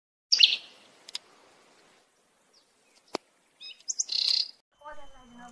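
Bird chirps: a loud, high chirp about half a second in and a second burst of chirping about four seconds in. Between them come a couple of faint clicks and one sharp click about three seconds in.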